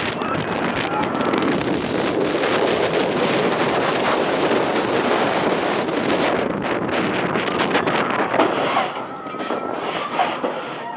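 Wind rushing over the microphone as a B&M dive coaster train runs along its track at speed. The noise eases near the end as the train slows.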